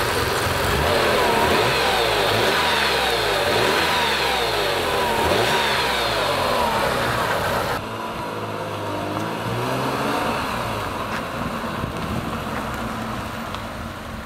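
BMW E36 M3's 3.2-litre S50 straight-six engine revved again and again, its pitch rising and falling. About eight seconds in the sound cuts to the car heard from further off, quieter, driving and accelerating.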